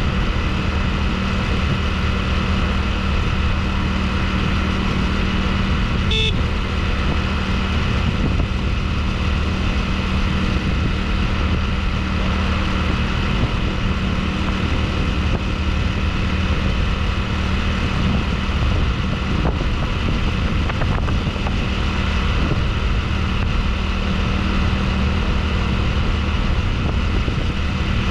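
Motorbike engine running steadily at an even speed during a ride, with a brief high-pitched tone about six seconds in.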